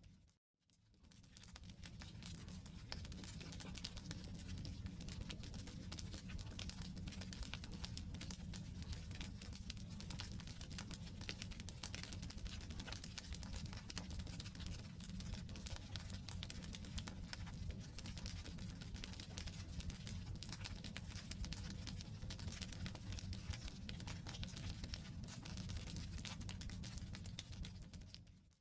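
Campfire logs burning with continuous dense crackling over a steady low rumble. The sound fades in from silence over the first second or two and cuts out at the very end.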